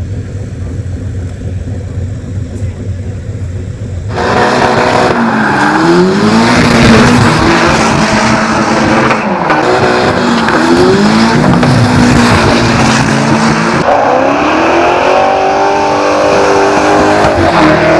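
Drift car engines revving hard with tyres squealing. A low rumble comes first, then about four seconds in the sound turns suddenly loud, with engine pitch repeatedly rising and falling as the throttle is worked. The revs climb higher near the end.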